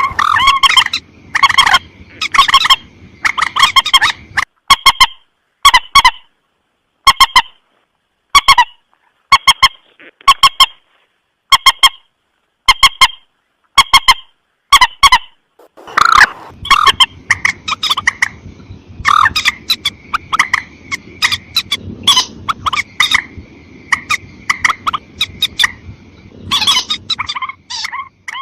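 Common moorhen (mandar batu) giving short, harsh, honking calls over and over: spaced single calls in the first half, then a faster, denser run of calls from about halfway. It is a lure call for drawing in moorhens.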